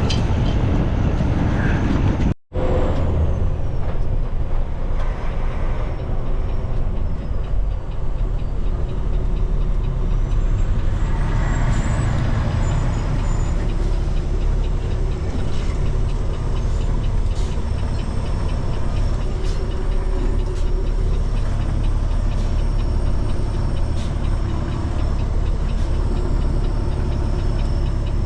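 Heavy tow truck's diesel engine running steadily as the truck drives, a constant low rumble. The sound cuts out for an instant about two seconds in.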